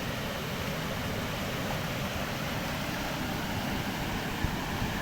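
Steady rushing noise of river water at a check-dam weir, with wind buffeting the microphone. A brief knock comes near the end.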